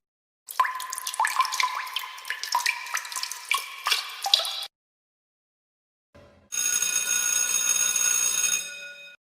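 Two sound effects, one after the other. First about four seconds of irregular water dripping and plinking, then after a short gap a steady, many-toned ringing like an electric bell, lasting about two and a half seconds and fading out near the end.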